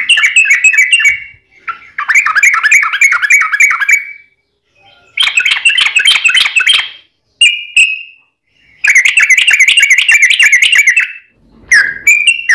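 Yellow-vented bulbul (trucukan) singing its long rapid song: four bursts of quick, bubbling chattering notes, each lasting one to two seconds, with short pauses between them.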